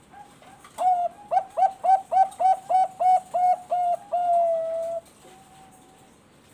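Zebra dove (Bangkok-bred perkutut) singing: a few faint notes, then a run of about a dozen short, clipped cooing notes, about three a second, ending in one longer drawn-out note.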